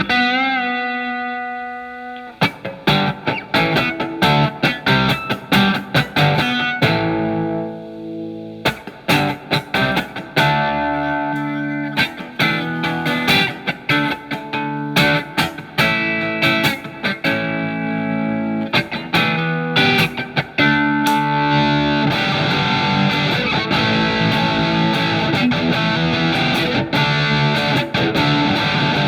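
Telecaster electric guitar played through a Marshall MG15FX amplifier with a little drive: a held note with vibrato at the start, then picked single-note lines, turning into denser, continuous sustained playing about two-thirds of the way through.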